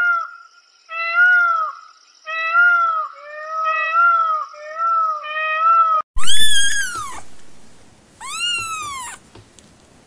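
Peacock calling: a run of about six short, repeated honking calls. About six seconds in, this cuts to domestic cats meowing, two long, loud, drawn-out meows.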